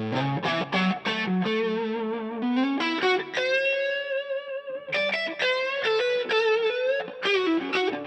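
Electric guitar played through a DVII tube amp with a distortion pedal: quick picked single-note lead lines, with one long held note shaken with vibrato in the middle.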